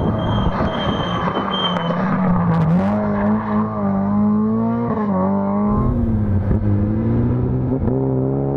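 Old Lada rally car's engine revving hard as it passes, its pitch climbing, dropping back and climbing again with throttle and gearshifts.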